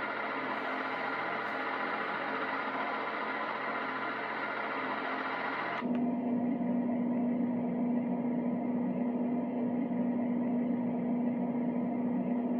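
Gladle white noise machine playing one of its steady sleep sounds, a bright even hiss. About six seconds in it switches abruptly to another sound: a darker, duller noise with a steady low hum running through it.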